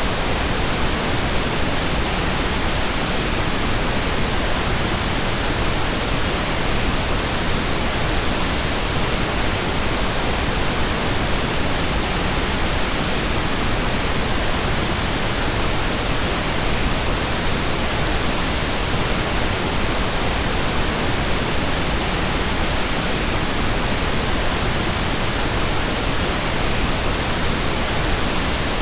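Steady pink noise: an even, unchanging hiss spread across all pitches, with no variation.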